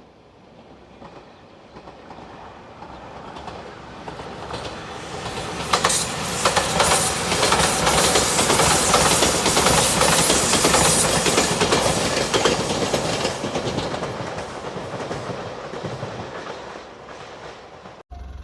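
Passenger train passing close by at speed, its wheels clacking over the rail joints. It grows louder, is loudest for several seconds in the middle, fades away, and then cuts off suddenly near the end.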